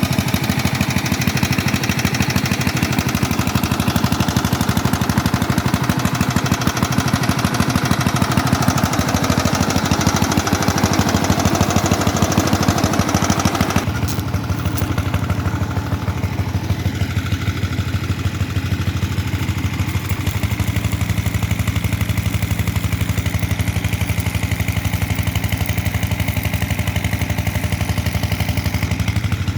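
Diesel engine of a generator running steadily with a rapid, even pulse. Its higher clatter fades about halfway through.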